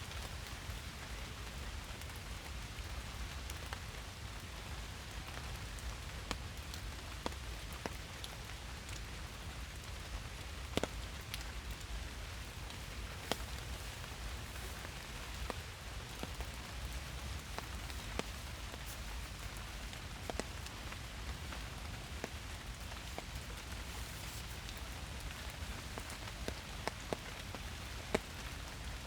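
Steady rain: an even hiss with many individual drops striking at irregular moments, a few of them louder than the rest.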